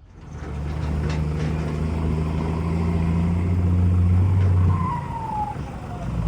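Motor vehicle engine running close by: a loud, steady low hum with rough mechanical noise. A faint falling whine sounds near the end.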